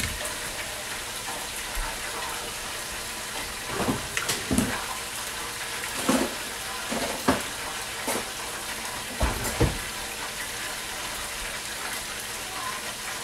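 Bell peppers and onions sizzling in a pot on a gas stove, with a pot of eggs boiling beside it: a steady sizzle, broken by a few brief louder sounds between about four and ten seconds in.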